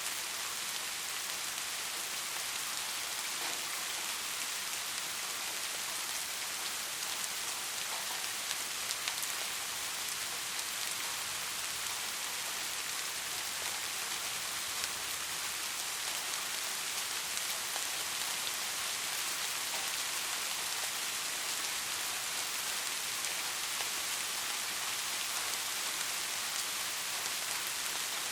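Steady rain falling, an even hiss with fine individual drop taps.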